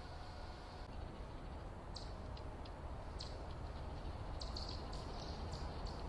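Small birds giving short, high chip notes, scattered at first and coming more often after about four and a half seconds, over a steady low hiss.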